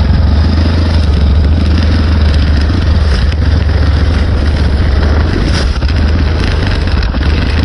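Honda Recon 250 ATV's single-cylinder four-stroke engine running at low speed, with a strong, steady low rumble on the microphone.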